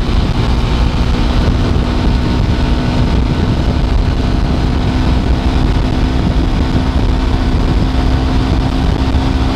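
Jawa 42's 293 cc single-cylinder engine running hard with a steady note as the motorcycle accelerates from about 100 to 120 km/h, under heavy wind blast on the microphone.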